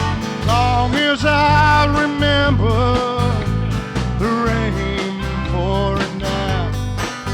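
Live band music: acoustic guitar strumming over a steady bass, with a wavering melody line on top, most likely the lead voice singing the opening line of the verse.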